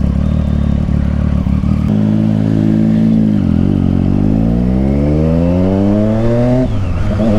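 Triumph Street Triple 675's inline-three engine through an aftermarket Yoshimura exhaust, running steadily and then accelerating. Its pitch dips briefly about three and a half seconds in, then climbs for about three seconds before dropping at an upshift near the end.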